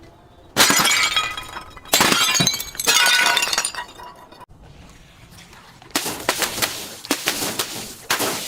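Glass bottles smashing: three crashes with tinkling shards in the first three seconds, a short lull, then a quick run of further crashes near the end.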